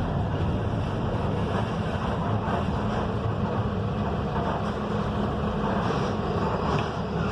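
Mercedes-Benz OF-1721 bus's diesel engine running steadily under way, with road and wind noise, heard from inside the passenger cabin.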